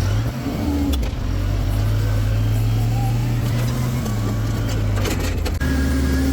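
Motor vehicle engine running under load while moving a trailer, a steady low hum that rises slightly about a second in and changes pitch abruptly near the end, with a few short knocks.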